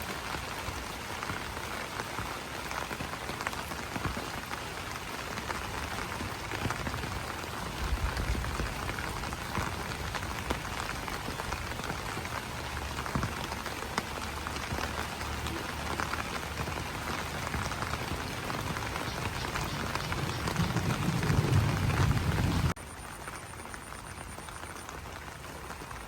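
Rain falling on banana leaves: a dense, steady patter of drops. A deep low rumble swells near the end, then the sound cuts off abruptly to a quieter rain.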